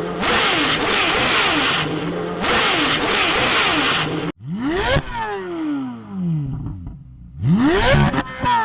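Corvette Z06 V8 engine sound. First it runs hard under acceleration with a dense, noisy tone. After an abrupt cut about four seconds in comes two sharp free revs, each climbing quickly and dropping back over about a second.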